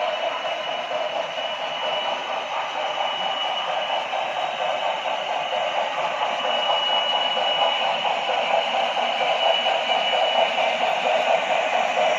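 HO scale model train running along the track, a steady rumble of wheels and motor with a faint high whine, slowly growing louder as it comes closer.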